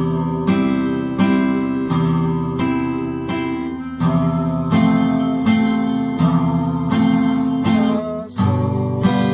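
Acoustic guitar strummed in a 3/4 waltz rhythm: a bass note on the low strings followed by two strums on the higher strings, "쿵 짝 짝" (boom-chick-chick), moving through the song's chords.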